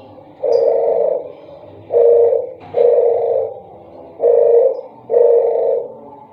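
Wild dove (puter geni / puter alas) cooing: five deep, hollow coo notes about a second apart, grouped in pairs.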